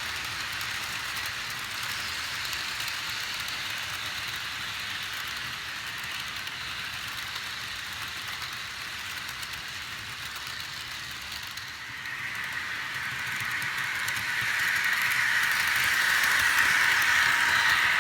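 HO scale model trains running on the track: a steady whir of motors and rolling wheels on rail. It grows louder about two-thirds of the way through, as a train comes closer.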